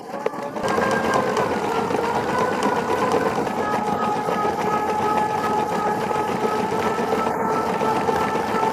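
Handmade wooden V8 engine model running at a steady speed, its moving parts making a fast, even clatter over a steady whine.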